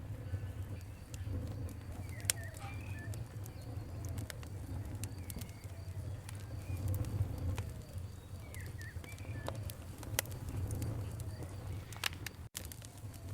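Campfire crackling, with frequent sharp pops over a steady low rumble, while birds chirp. The sound drops out for an instant near the end.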